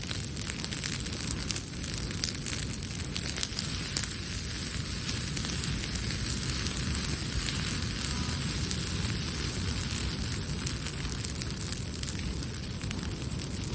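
Wood campfire crackling, with many small pops over a steady hiss.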